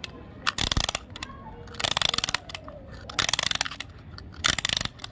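Clockwork key of a wind-up toy being turned to wind it, its ratchet clicking rapidly in four short bursts, one per turn.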